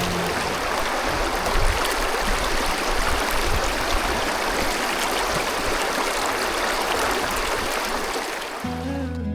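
Running water in a stream: a steady rushing.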